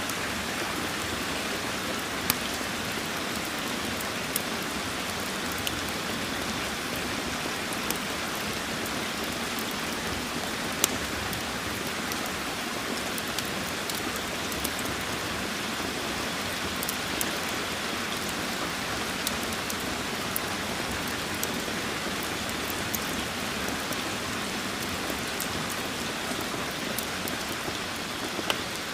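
Steady rain falling, with scattered sharp crackles and pops of a wood fire in a fireplace, the loudest about two and eleven seconds in.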